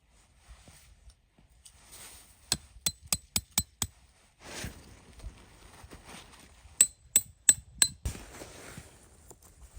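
Two quick runs of sharp metallic strikes, five or six in each about a quarter to a third of a second apart, each with a brief ring, like hammer blows on metal. Softer rustling comes between them.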